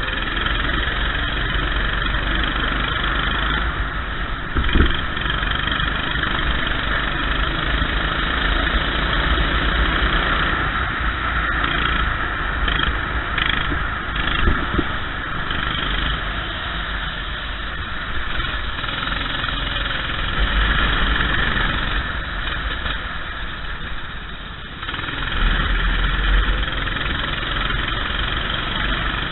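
Go-kart engine running continuously, its sound shifting as the kart speeds up and slows, over a steady hiss.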